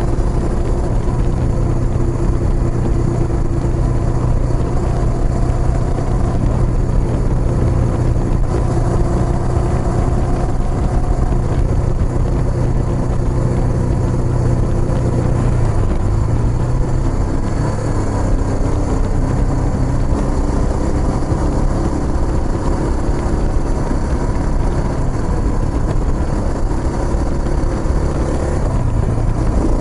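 Kawasaki Estrella's single-cylinder engine through a Yamato aftermarket muffler, running steadily while riding. Its note dips about halfway through, then settles at a slightly different pitch.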